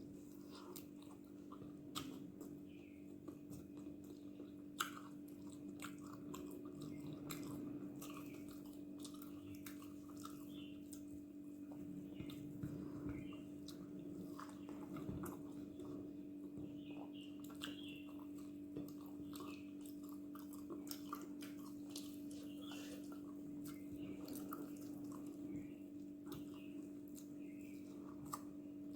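Close-up chewing and biting of a person eating dosa with chutney and kuzhambu: wet, irregular mouth clicks and smacks. A steady low hum runs underneath.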